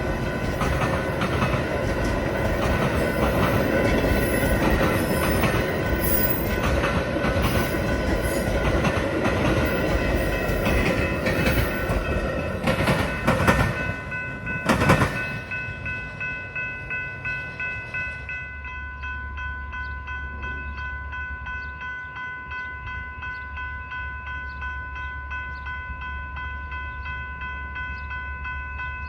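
A passing train, loud with rail clatter and knocks, for about the first half. It fades out around the middle, leaving a low hum and a steady ringing with about two strikes a second, typical of a grade-crossing bell.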